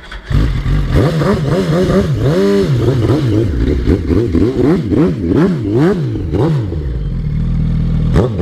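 Motorcycle engine catching and then being revved in repeated quick throttle blips, about two a second, before settling to a steadier run near the end.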